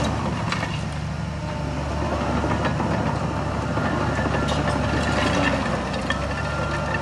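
Heavy diesel engine of earthmoving machinery running steadily at a low drone, with scattered metallic clanks over it.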